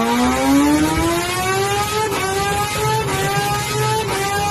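Kawasaki ZX-10R sportbike's inline-four engine accelerating hard through the gears. Its pitch climbs steadily, with three quick upshifts about a second apart from about two seconds in.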